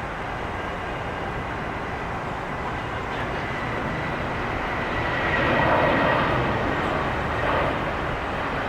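Jet airliner engines, a steady rushing noise with a thin high whine, swelling to its loudest about six seconds in and then easing off as the aircraft passes.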